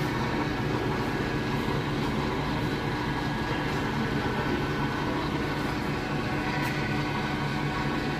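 Metal-working lathe running steadily, a constant machine hum with several steady tones over an even noise.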